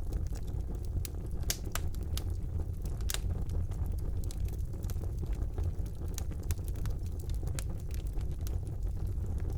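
Wood fire burning in a fireplace: a steady low rumble of the flames with sharp, irregular crackles and pops from the burning logs, several a second.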